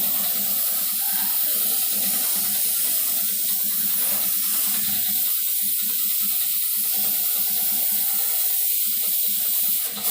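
Steady hiss of paint being sprayed, running continuously with a brief dip near the end.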